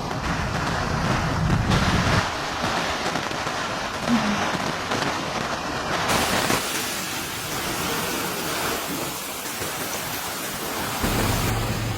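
Heavy rain in a storm, a dense rushing hiss whose character changes abruptly a few times. A low steady hum joins it near the end.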